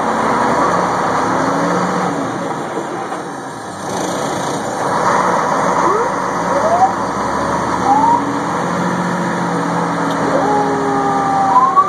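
Fire engine running, with a few short rising siren whoops partway through. Near the end the siren winds up into a rising and falling wail.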